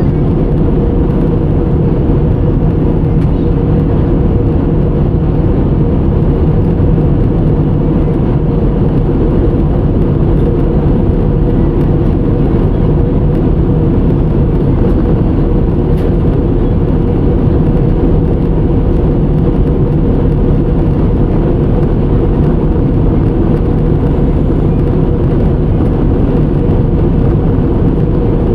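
Jet airliner cabin noise in flight: the steady rumble of engines and rushing air, with an even hum running through it.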